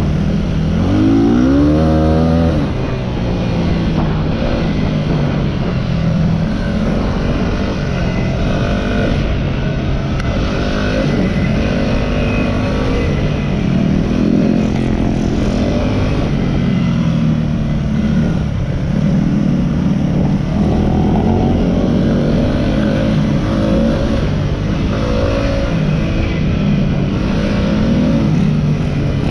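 Yamaha WR250R's 250 cc single-cylinder four-stroke engine under way, heard from on the bike, revving up and easing off again and again through the gears, with a sharp rise in pitch about a second in.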